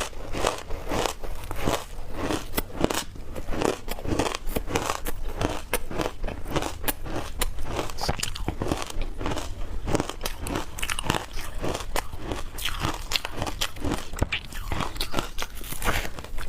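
Close-up crunching of shaved ice being bitten and chewed, a rapid run of sharp cracks and crackles.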